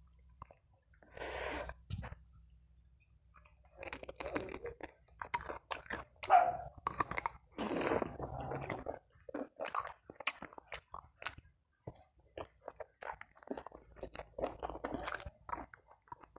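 A person biting and chewing fried chicken with raw chili sambal and rice. There is one breath about a second in, then from about four seconds in a dense run of short clicks and crunches from the bites and chewing.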